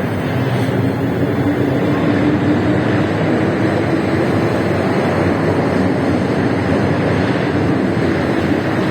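First-generation MTR M-Train electric multiple unit pulling out of the station: a loud, steady rumble of wheels and running gear, with a low motor whine that rises slightly in pitch over the first few seconds as the train gathers speed.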